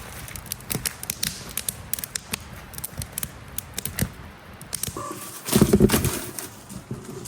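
Wood campfire crackling, with irregular sharp pops and snaps. A louder, lower noise lasts about a second near the end.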